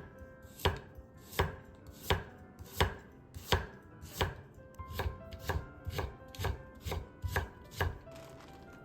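Kitchen knife chopping on a cutting board, with evenly spaced cuts at first and then quicker ones, stopping shortly before the end.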